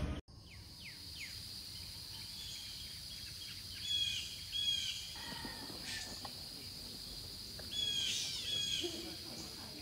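Birds chirping in short repeated phrases, two pairs of calls about four seconds in and again near eight seconds, over a steady high-pitched drone.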